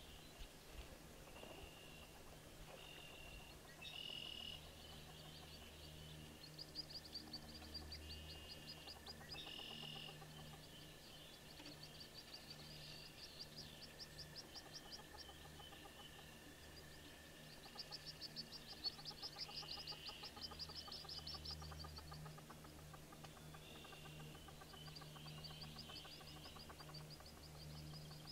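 Birds calling faintly: short high chirps and several runs of rapid high trills, the longest around the middle and near the end, over a steady low hum.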